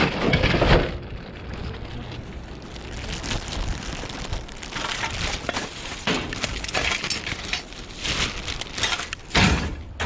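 Scrap being rummaged through and handled: irregular rustling and clattering, with a louder clatter at the start and another near the end.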